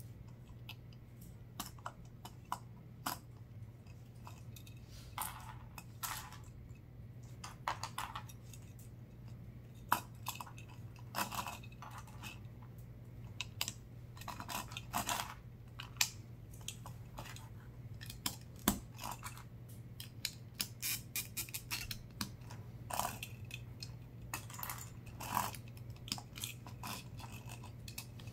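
Lego bricks being handled and pressed together: irregular plastic clicks and short rattles, over a steady low hum.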